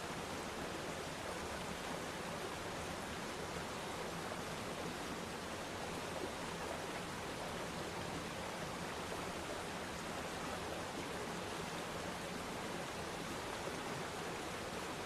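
Waterfall: steady rushing of falling water, constant and without breaks.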